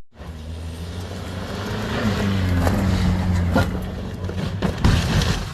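A car running, with a steady engine hum and road noise whose pitch dips briefly about two seconds in. A couple of sharp knocks come in the second half.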